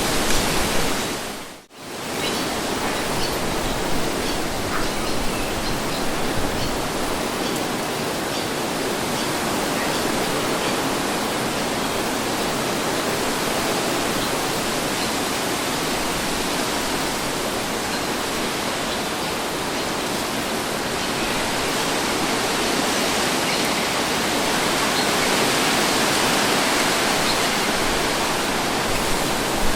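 Steady wind breeze, an even rushing noise. About two seconds in it briefly drops away almost to nothing and comes straight back, and it swells a little near the end.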